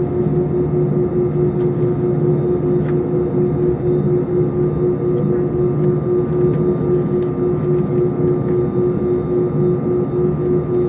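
Airbus A320 engines and airflow heard from inside the passenger cabin: a steady, loud drone with an unbroken humming tone.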